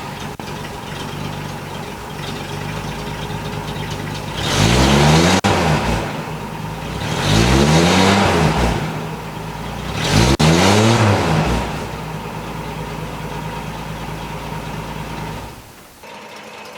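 1958 Rambler's inline-six engine idling just after start-up, with the throttle blipped three times, each rev rising and falling back to idle. The sound drops off sharply near the end.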